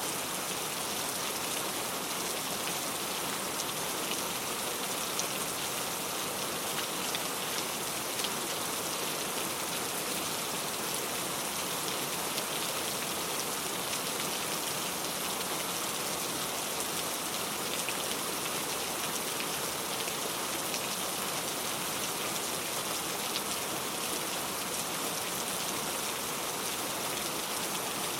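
Steady rain falling: an even hiss of rainfall dotted with fine, scattered drop ticks, unchanging in strength throughout.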